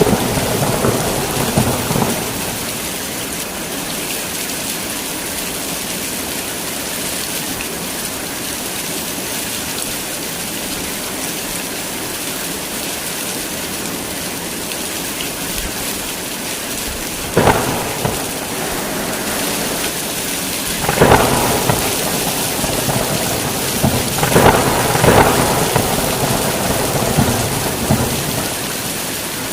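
Heavy rain falling steadily, with thunder: a rumble fading out in the first couple of seconds, a sudden crack a little past halfway, then rolling rumbles that swell and die away near the end.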